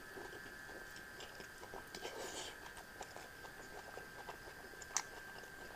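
A person chewing food softly with their mouth closed, with small clicks of fingers picking food from a plate and one sharper click about five seconds in.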